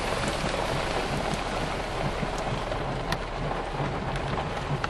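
Steady rain falling, with scattered sharp ticks of drops hitting close by.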